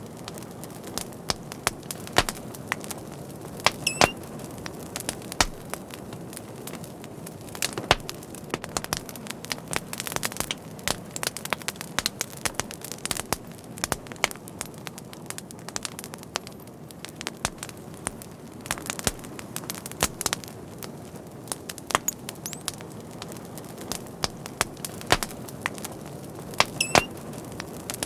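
Fire crackling: a steady low rustle with frequent irregular sharp pops and snaps, some of them loud.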